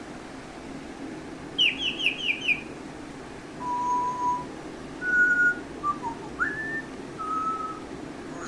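African grey parrot giving a quick run of five falling chirps, then a string of clear whistled notes at different pitches, one of them sliding upward.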